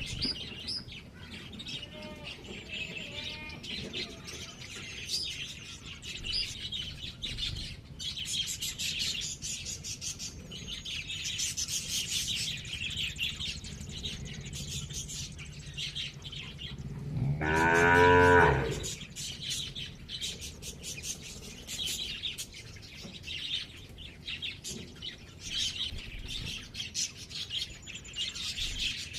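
Small birds chirping continuously, with a cow mooing once, a single long low call of about a second and a half about two-thirds of the way through. The moo is the loudest sound.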